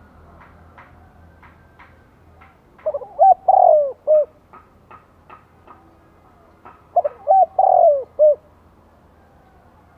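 Spotted dove cooing its calling song: two phrases of several coos each, about four seconds apart. Faint short ticks sound in between.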